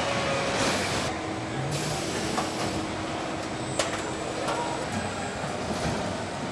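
Steady machinery noise of a car factory floor, with a faint hum for a few seconds and a sharp click near the middle.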